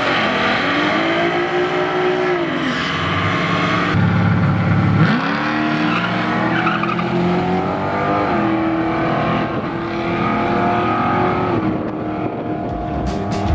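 Car engine revving hard, its note climbing, holding and dropping several times as it accelerates and lets off. Rhythmic music starts near the end.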